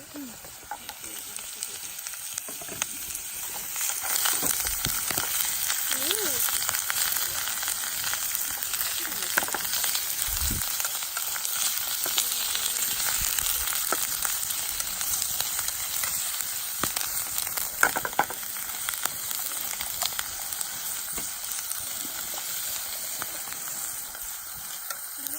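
Meat frying and sizzling steadily. The sizzle builds over the first few seconds, with scattered small pops and clicks.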